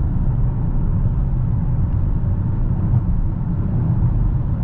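Steady low rumble of a 2022 Dodge Challenger Hellcat cruising on the highway at light throttle during engine break-in: supercharged 6.2 L Hemi V8 drone mixed with road and tyre noise, heard inside the cabin.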